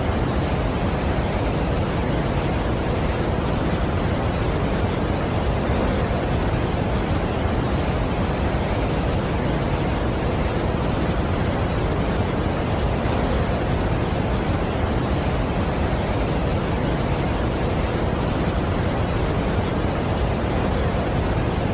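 Steady rush of a large waterfall: an even, unbroken wash of falling water, heaviest in the low end, with no change throughout.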